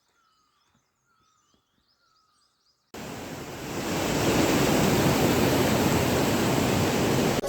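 A small bird chirps faintly and repeatedly over near silence. About three seconds in there is a sudden cut to the loud, steady rushing roar of a waterfall.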